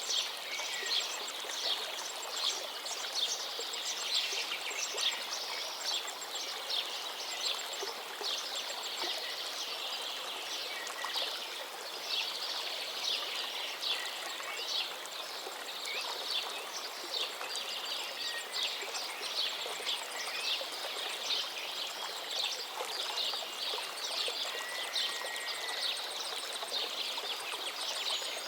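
A gently flowing forest river's steady rush, with a dense chorus of songbirds chirping and singing over it, and one short whistled note about three-quarters of the way through.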